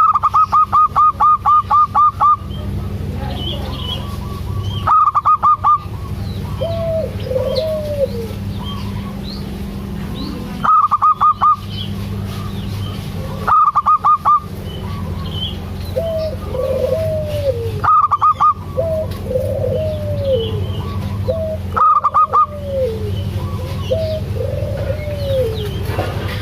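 Zebra dove (perkutut) cooing in soft arching notes. Short bursts of loud, rapid repeated high notes cut in every few seconds and are the loudest sound, with faint chirps of small birds and a steady low hum beneath.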